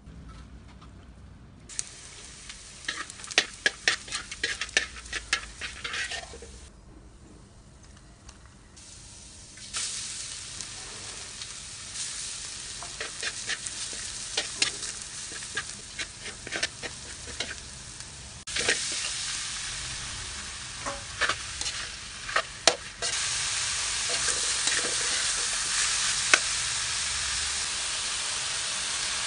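Minced garlic frying in oil in a wok, sizzling, while a spatula scrapes and clicks against the pan. The sizzle comes in separate stretches and turns louder and steady from about three quarters of the way in.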